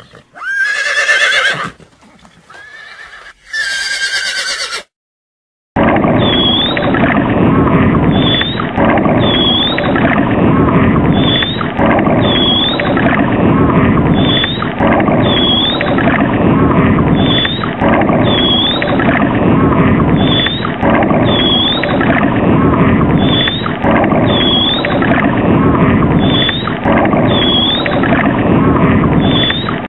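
Horses neighing several times in the first few seconds. After a short gap comes a loud, continuous dense sound with a short high chirp about once a second, which lasts to the end.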